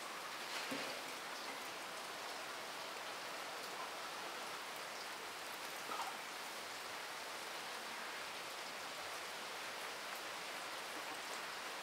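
Steady rain, an even hiss of patter with a few faint ticks.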